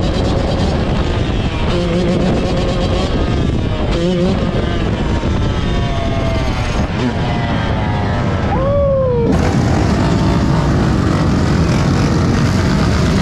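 Loud motor-vehicle engine running, its pitch rising and falling, with an abrupt change in the sound about nine seconds in.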